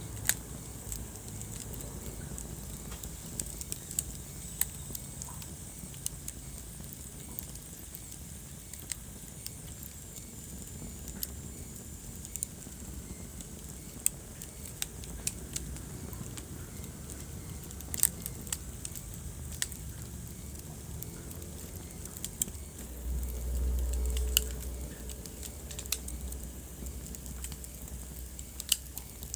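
Wood fire crackling in a fireplace: scattered sharp pops and snaps over a steady low hiss of burning. A low rumble swells for a couple of seconds late on.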